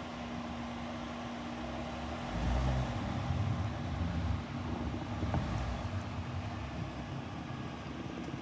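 Car engine running with a steady hum, its low rumble swelling louder for about two seconds a couple of seconds in, then again briefly around five seconds.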